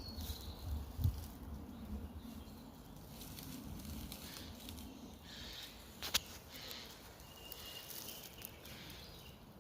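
Honeybees buzzing faintly around newly placed hives, a low hum that fades after about five seconds, with one sharp click about six seconds in.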